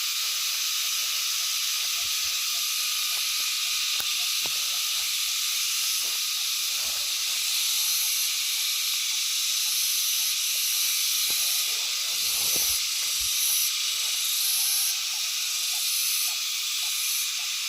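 Dense night chorus of insects: a steady, high-pitched shrill buzz, with a higher layer that pulses on and off in blocks over the second half. Faint scattered knocks sound underneath.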